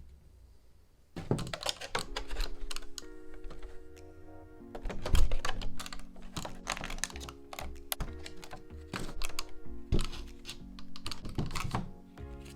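Close handling of a Pokémon trading-card box and its packaging: a dense run of clicks, taps and crinkles starting about a second in, over background music with held chords.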